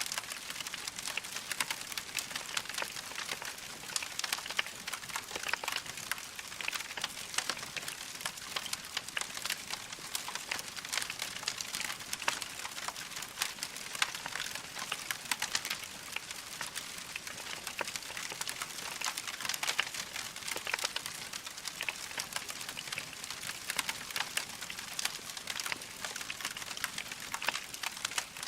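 Log fire crackling steadily: a dense run of small pops and snaps over a soft hiss.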